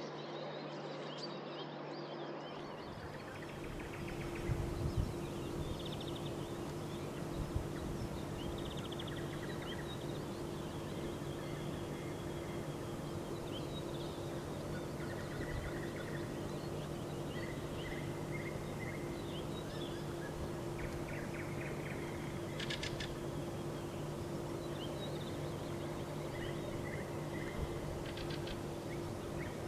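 Several songbirds calling and singing in short scattered phrases and trills over steady distant city noise with a constant low hum. A few low thumps come about four to five seconds in.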